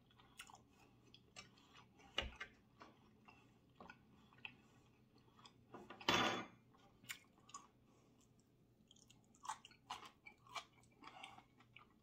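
A person chewing food with wet mouth clicks and lip smacks, quiet and irregular. One louder, half-second noise comes about six seconds in.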